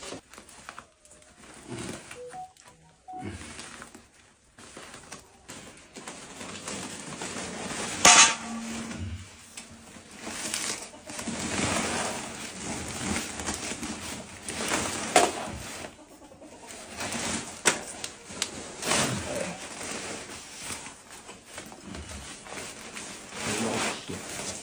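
Irregular rustling and clattering as a sack of corn is handled and tied shut, with one sharp knock about eight seconds in.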